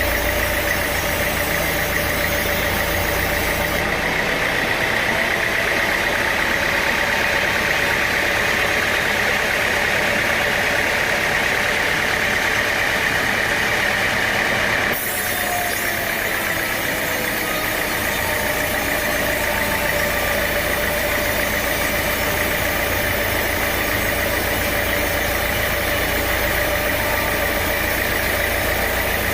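Sawmill machinery running steadily: a motor's even drone with a high whine over it. The sound shifts abruptly once, about halfway through.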